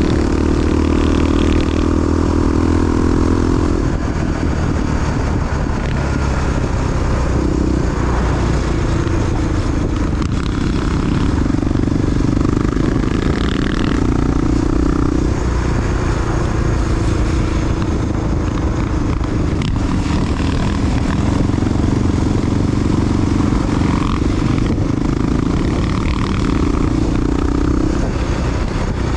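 Big single-cylinder four-stroke Honda XR dual sport motorcycle running on the road. The engine note holds steady for a few seconds at a time, then shifts with throttle and gear changes, over a steady rush of wind and road noise.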